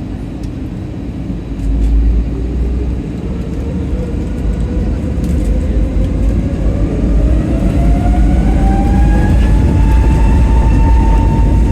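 Jet airliner engines spooling up for the takeoff roll: a whine rising steadily in pitch over a heavy low rumble that keeps growing louder, with a jump in loudness about two seconds in.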